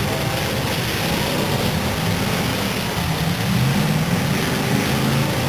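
Engines of several full-size demolition derby cars running and revving together as they push and ram in the arena, a loud steady din that wavers in pitch.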